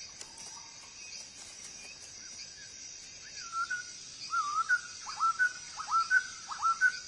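Outdoor ambience of a steady high insect chirring. About three seconds in, a bird starts calling repeatedly, each short whistled note dipping down and swinging back up, about two a second and growing louder.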